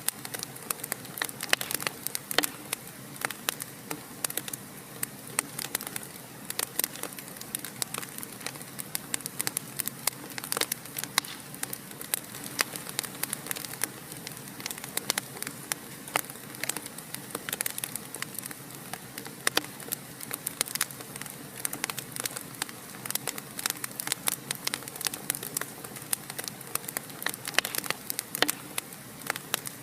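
Wood fire in a fireplace crackling steadily, with frequent sharp pops and snaps over a soft hiss.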